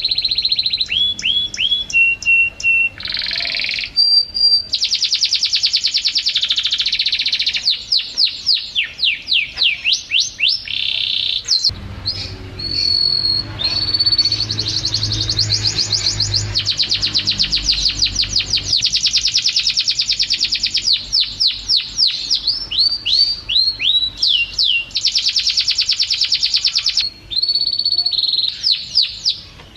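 Domestic canary singing a long, continuous song: fast trills of rapidly repeated notes, quick downward-sweeping whistles and short held high notes, broken by brief pauses.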